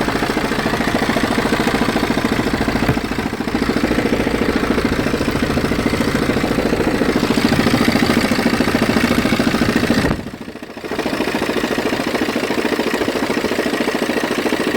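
BMW 320d F30's four-cylinder diesel engine idling with a grinding, juddering rattle: an intermittent fault noise that the owner says goes away when the engine is revved and comes back at idle. The sound drops out sharply for about half a second around two thirds of the way through, then returns.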